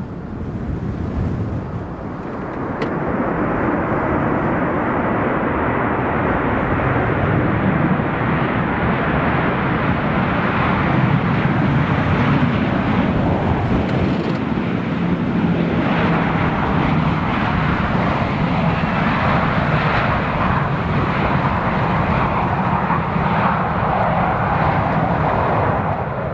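Airliner engines running loud and steady, swelling about two seconds in and then holding.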